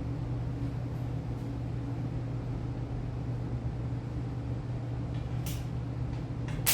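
Steady low electrical hum, then a sharp click about five and a half seconds in and a loud crack at the very end, as the starter circuit on an LS engine is jumped by hand and arcs.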